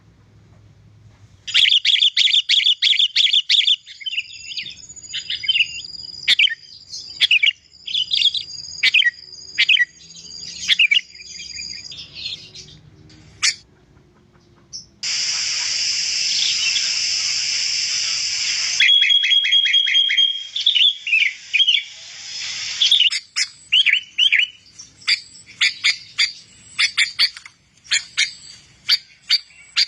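Sooty-headed bulbul singing: fast runs of high, clear chirps and trilled phrases with short pauses. A harsh, hissing chatter lasts about four seconds midway.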